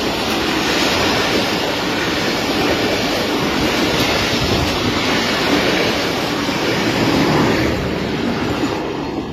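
Passenger train rolling along the rails as it departs, a steady noise of wheels and carriages on the track that eases off slightly near the end.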